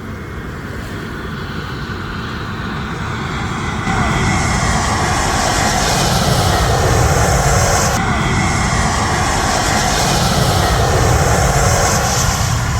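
Cebu Pacific jet airliner passing low overhead on its landing approach. The engine noise builds steadily with a faint whine, is loudest through the middle, and begins to fade near the end.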